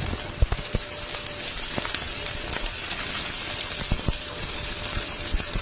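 Electric arc welding: a continuous crackling hiss with irregular sharp pops.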